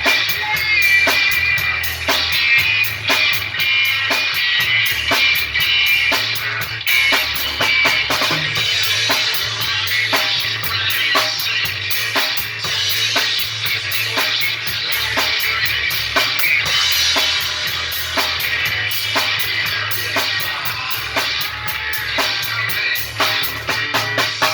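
Rock and roll music in an instrumental passage without vocals: a drum kit keeping a steady beat of bass drum, snare and cymbals under sustained instrument tones.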